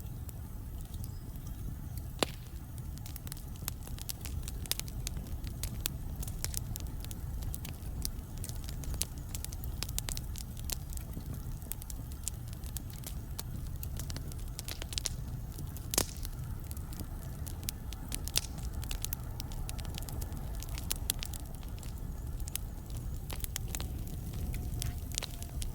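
Wood fire burning in a fireplace: a steady low rumble of flames with irregular sharp crackles and pops from the logs, a few louder pops standing out, one about two seconds in and one past the middle.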